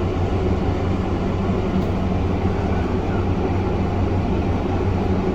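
Steady low machine hum with an even hiss, unchanging throughout, like a fan or air-conditioning unit running in the room.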